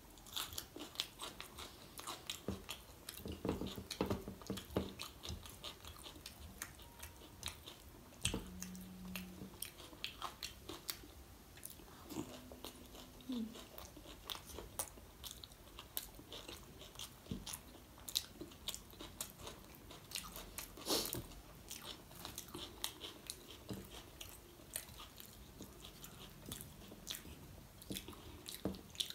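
Close-miked eating sounds: steady chewing of soft pav and bhaji with wet smacks, lip clicks and an occasional crunch. There are two short closed-mouth hums along the way.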